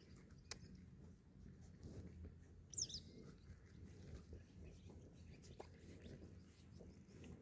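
Near silence: faint outdoor ambience with a low steady hum, a sharp click about half a second in, and a single short, high, falling bird chirp about three seconds in.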